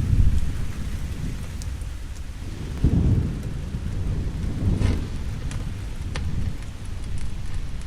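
Steady rain with low rumbles of thunder, swelling near the start and again about three and five seconds in, and a few sharp crackles scattered through.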